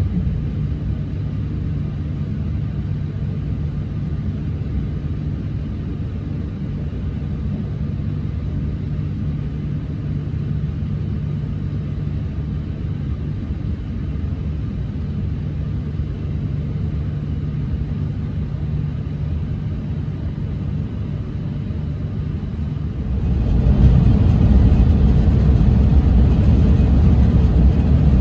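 Shinkansen train running with a steady low rumble and a faint hum, which grows suddenly louder and fuller about 23 seconds in and stays loud.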